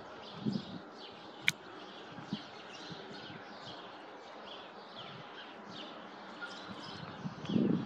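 Small birds chirping repeatedly in short falling notes, several a second, over a steady background hiss. A single sharp click comes about one and a half seconds in, and low thumps come near the start and near the end.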